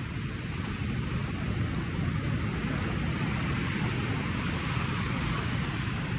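Steady wind rumbling on the microphone, with ocean surf washing on the beach.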